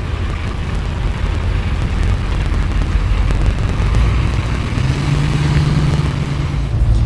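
Truck engine running with a low rumble that grows steadily louder, a steady low engine note coming in about five seconds in.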